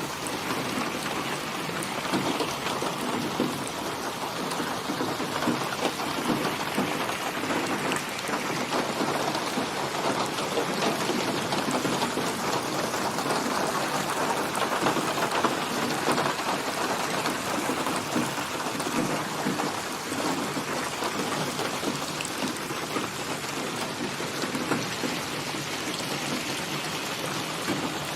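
Steady rain falling, a constant hiss dotted with many small drop impacts.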